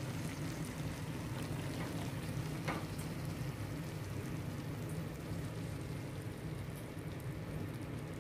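Stir-fried noodles and vegetables sizzling in a hot frying pan, a steady soft hiss with a low hum underneath.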